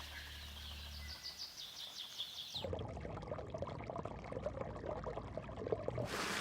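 A bird trills in a quick run of repeated high notes as background music fades out. About two and a half seconds in, the sound changes abruptly to shallow river water sloshing and trickling with many small splashes.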